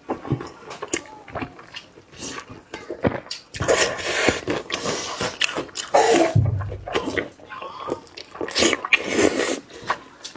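Close-miked mouth sounds of a person eating sausage: wet chewing, biting and slurping that come in irregular bursts, with small clicks in between.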